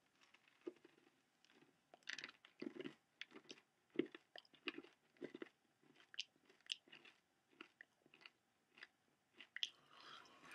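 A person chewing a mouthful of candy-shelled M&M's: faint, irregular crunches as the hard shells crack between the teeth, coming thick and fast at first and sparser toward the end.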